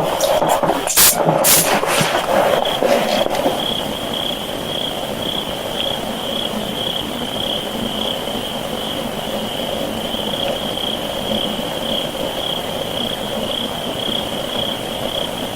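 Boosted night field recording: a high-pitched calling chorus pulsing steadily about twice a second over heavy hiss, with a few sharp clicks and knocks in the first three seconds.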